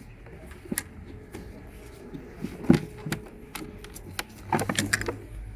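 Scattered clicks and knocks of hard objects being handled, with one sharp knock about two and a half seconds in and a quick run of rattling clicks near the end.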